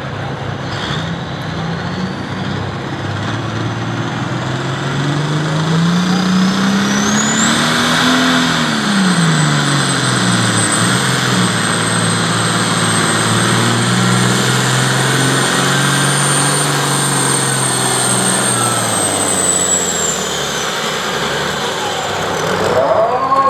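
A Classic Super Stock pulling tractor making a full pass with the sled: the engine climbs in pitch for the first eight seconds or so, then drops and holds lower under the sled's growing load, and fades near the end. A high turbocharger whistle rises with it, holds, and falls away as the pass ends.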